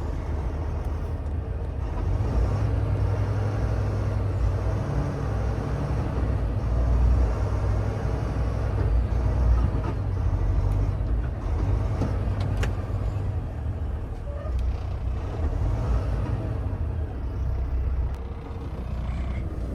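Semi-truck's diesel engine running steadily with a low rumble, louder for a stretch in the first half, with a single sharp click about twelve seconds in.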